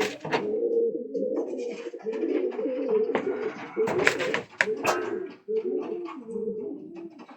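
Pigeons cooing in a loft: many overlapping low, rising-and-falling coos, with a few sharp knocks around four to five seconds in.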